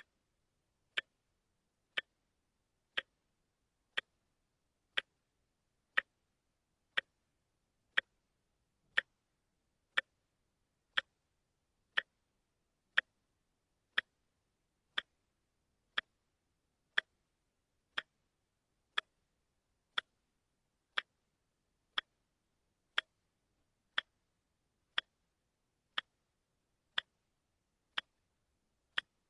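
Watch ticking steadily, one sharp tick a second with silence between the ticks.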